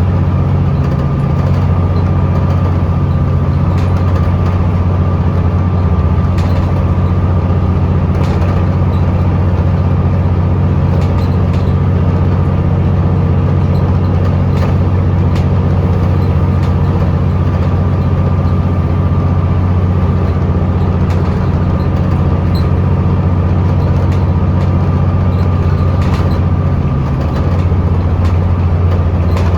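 Scania L94UB bus's diesel engine droning steadily under way at an even cruise, heard from inside the cabin, with a thin steady whine above it and scattered light clicks and rattles.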